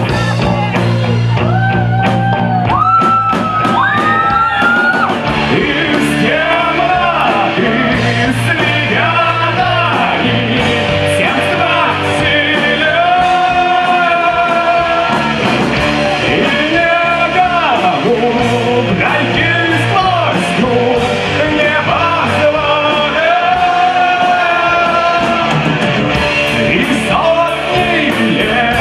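Rock music from a band, with a melodic lead line that bends and glides over a held low part.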